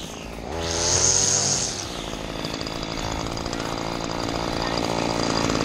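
Small petrol engine of a handheld garden power tool revving up over about two seconds, then running steadily at high speed.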